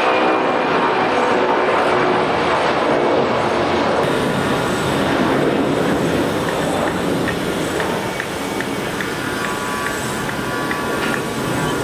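Boeing 747-400's four jet engines running at departure power, a loud steady rushing roar of jet noise.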